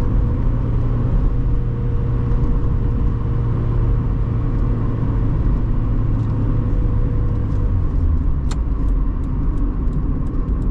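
1997 Mazda MX-5 Miata's four-cylinder engine running steadily under way, heard with road noise. The engine eases off about eight seconds in, followed by a sharp click and a run of light ticks near the end.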